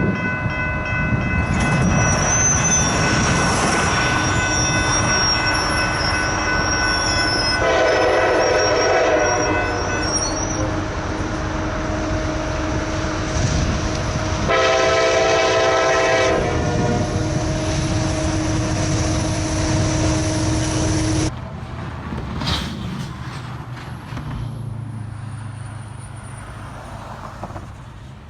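Freight train passing with its locomotive air horn sounding. A held chord of horn tones runs under two louder blasts, about 8 and 15 seconds in, and a high wheel squeal is heard during the first ten seconds. The horn stops and the rumble falls away after about 21 seconds.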